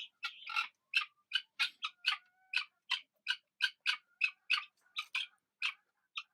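A bird calling in a steady run of short, sharp, high calls, about three a second.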